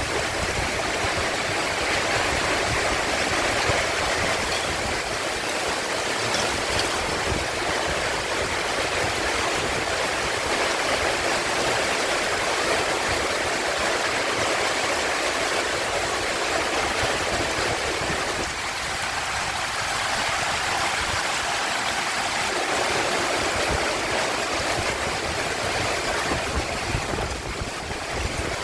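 Heavy rain pouring steadily, a dense even wash of noise with no thunder standing out.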